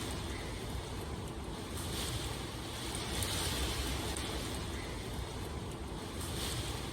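Steady rain, an even hiss over a low rumble, swelling and easing every second or two.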